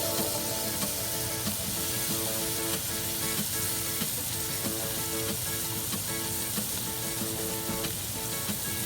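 Food frying in hot oil in a pan: a steady sizzle with small crackles and pops, over soft background music.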